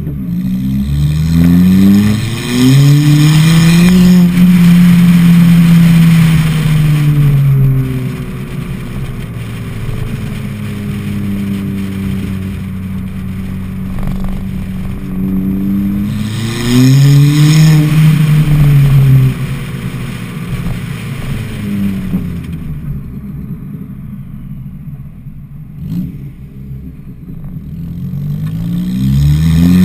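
Ford Fiesta ST with a side-exit exhaust accelerating hard, its engine note climbing in pitch through the gears with short dips at each shift. It holds a high steady note for a few seconds, then eases off. This happens twice, and it starts climbing again near the end.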